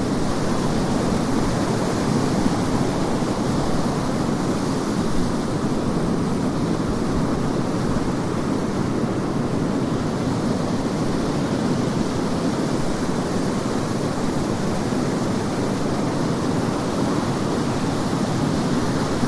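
Surf washing onto a beach in strong wind, with wind buffeting the microphone: a steady, dense rush that swells and eases slowly.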